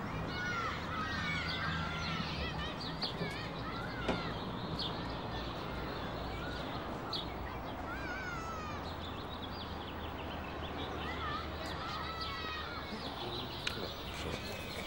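Birdsong outdoors: many short chirps and twittering calls over a steady low hum, with a single sharp click about four seconds in.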